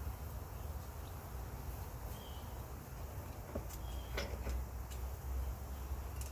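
Outdoor ambience: a steady low rumble with a few faint, short high chirps and light clicks.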